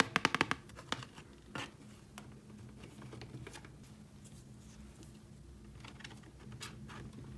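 Light clicks and taps of small hard objects being handled: a quick run of clicks at the start, a couple of single taps, then a few more clicks near the end.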